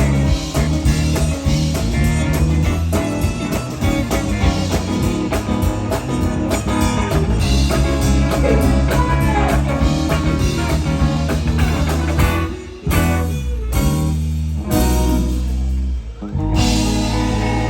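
Live band playing blues-rock, electric guitar over bass and drums. Near the end the band stops short a few times, with brief gaps between loud hits.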